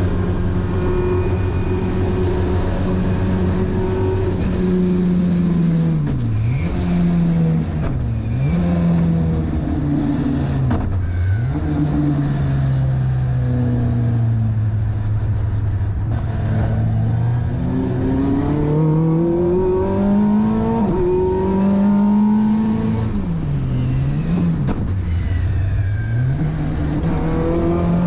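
Vauxhall 2.3 XE four-cylinder race engine on throttle bodies, heard from inside the Starlet's cabin on track: held high at first, then dropping as the car slows, with quick dips and jumps in pitch at the gear changes. It pulls low and steady through a slow corner, then rises again under acceleration, with more quick dips near the end.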